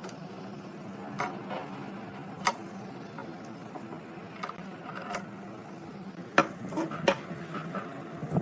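Small metal parts and hand tools clicking and clinking as they are handled, about a dozen sharp separate clicks, the loudest about two and a half seconds in and a cluster near the end, over a steady low hum.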